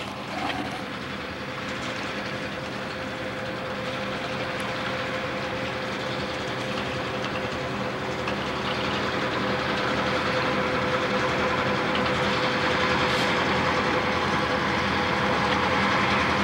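Freight train rolling past, with the steady hum of McCloud River Railroad diesel locomotives over the noise of wheels on the rails. It grows gradually louder as the locomotives draw near.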